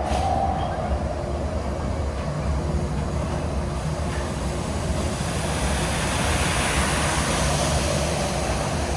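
Disneyland Mark VII monorail running along its beam, heard from inside the passenger cabin: a steady low rumble, with a high hiss that swells about halfway through.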